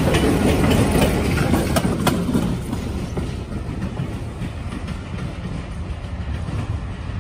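Passenger train with a trailing diesel road-switcher locomotive rolling past close by: a rumble of wheels on rail, with a couple of sharp wheel clicks about two seconds in. Then it fades steadily as the train moves away down the line.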